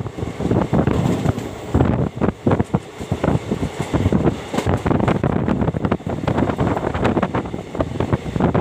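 Wind buffeting the microphone in loud irregular gusts, over the running noise of a moving train.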